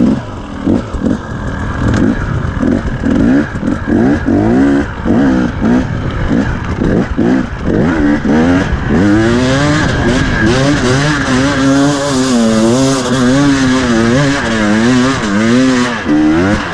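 Dirt bike engine revving hard under load up a steep hill climb. For the first half the throttle is blipped on and off in quick surges. Then it is held at high revs with the pitch wavering up and down.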